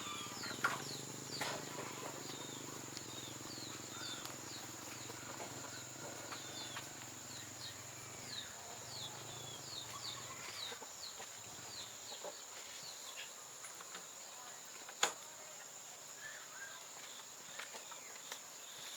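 Birds chirping in many short, falling notes over a steady high insect whine. A low hum fades out about two-thirds of the way through, and there is a single sharp click near the end.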